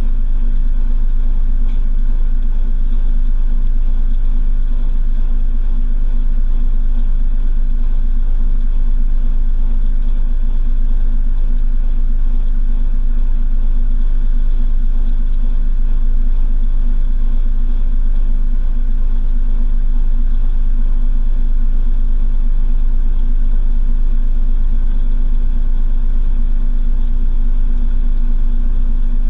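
Washing machine drum spinning at a steady speed, heard from inside the drum: a loud, even rumble with a steady motor hum and no pauses.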